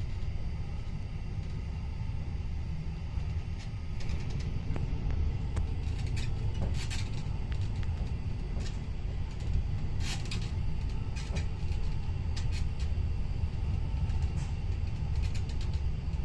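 Škoda EJ575 electric train running, heard from on board: a steady low rumble, with sharp clicks and rattles from about four seconds in.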